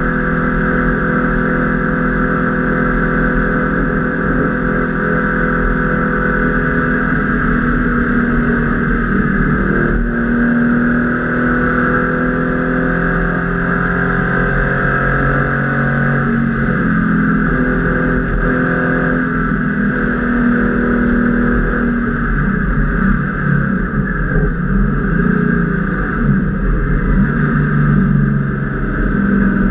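Porsche 993 RS Club Sport's air-cooled flat-six engine heard from inside the stripped cabin, pulling hard at speed. It holds a steady pitch for several seconds, then glides and breaks several times with gear changes. In the last several seconds it rises and falls unevenly as the car goes into a corner.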